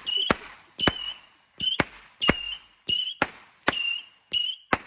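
A firework going off in a rapid, even series of sharp pops, about two a second, each pop followed by a short, high whistle.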